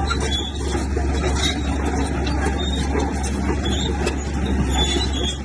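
Komatsu bulldozer's diesel engine running steadily, a constant low drone with mechanical noise over it.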